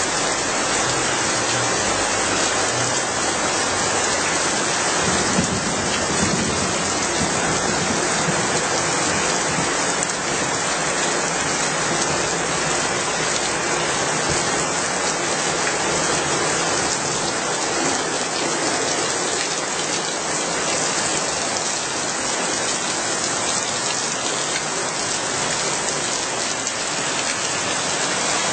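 Steady rain falling on a street, an even hiss with no breaks.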